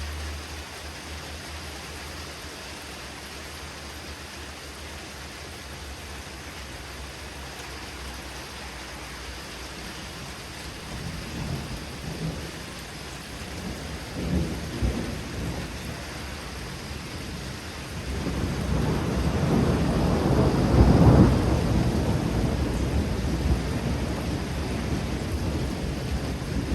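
Thunderstorm: steady rain with low rumbles of thunder from about ten seconds in. About eighteen seconds in, a long, loud roll of thunder begins, peaks a few seconds later and slowly fades.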